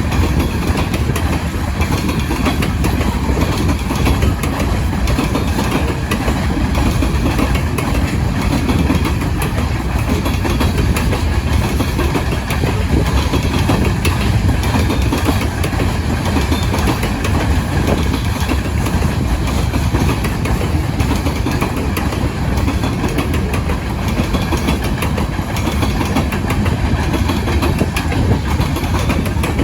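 Loaded grain train's freight cars rolling past, a loud, steady rumble of steel wheels on rail with continual fine clicking from the wheels.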